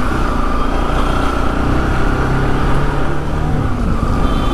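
Motorcycle running on the move, its engine note mixed with steady road and wind noise.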